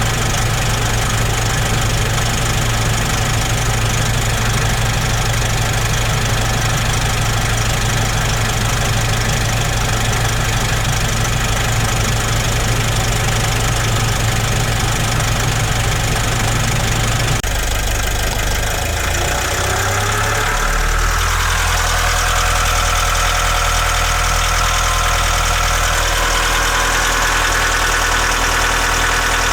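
Nissan NV350 Caravan's YD25DDTi 2.5-litre four-cylinder turbodiesel running steadily, with the usual diesel clatter; the engine has about 100,000 km on it and is in excellent shape by the owner's account. About 18 seconds in the tone of the sound changes and a whine rises over a few seconds before it settles into a new steady running note.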